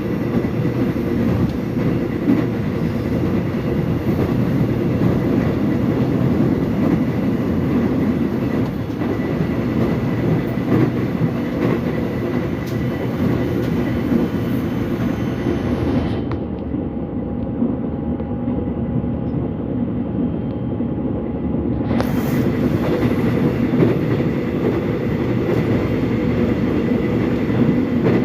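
Korean subway train running, a steady dense rumble of wheels on the rails with faint clickety-clack and a thin steady whine. The higher hiss drops away for a few seconds midway, then returns.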